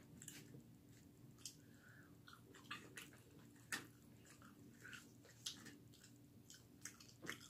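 Quiet chewing and biting of extra-crispy fried chicken wings, with a dozen or so sharp crackling clicks scattered through it over a faint low hum.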